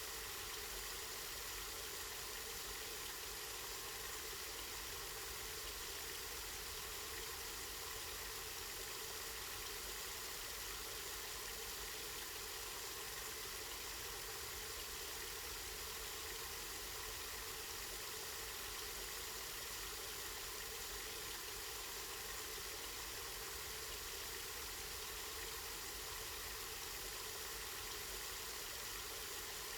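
Water from a spring running in a steady, unbroken flow.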